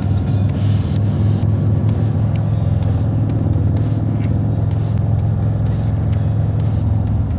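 Harley-Davidson Road Glide's V-twin engine running at a steady cruising speed: an even, low drone.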